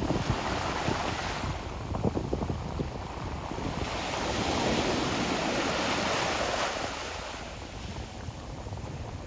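Ocean surf washing on a shore. The hiss of a breaking wave swells about four seconds in and then drains away over the next few seconds, with low crackling wash in the first couple of seconds.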